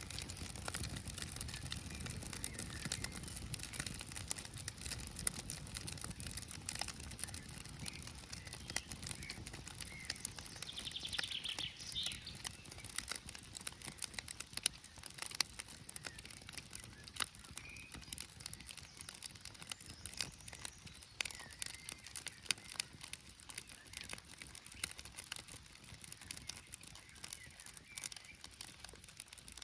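Small campfire of birch bark and wood crackling, with irregular sharp pops. About eleven seconds in, a bird calls briefly.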